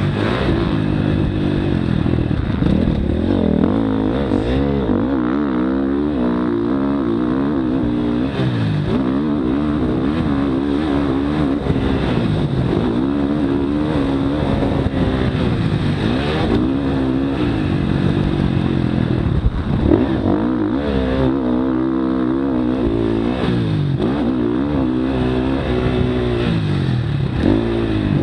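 Motocross dirt bike engine revving hard and continuously, its pitch climbing and dropping over and over with throttle and gear changes.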